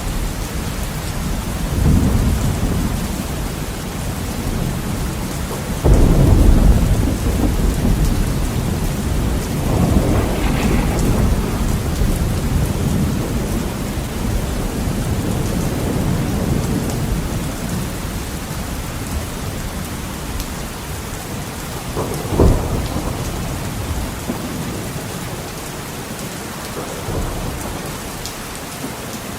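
Heavy rain hissing steadily against a window, with rolling thunder: a sudden loud crack about six seconds in, long rumbles after it, and another short sharp clap a little past the middle, the rumbling dying down near the end.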